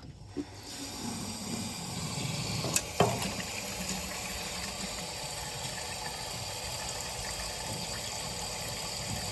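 Steady rushing of running water that starts about a second in, with a couple of light knocks around three seconds.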